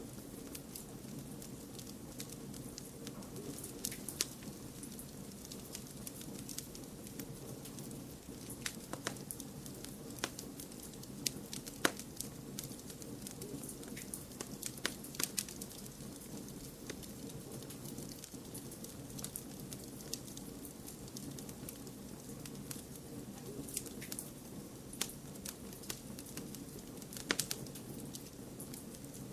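Wood fire crackling, with irregular sharp pops and snaps over a steady low hiss and rumble of blended white noise.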